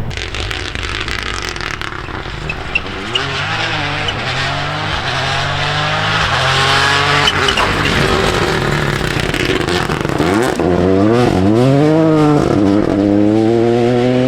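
Rally car engine revving hard, its pitch stepping through gear changes, then rising and falling sharply about ten seconds in as it comes closer and gets louder.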